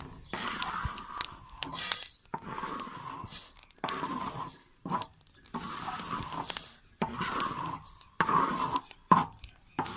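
Roasted barley grains scraped and stirred in a metal pan with a utensil, in repeated strokes about once a second.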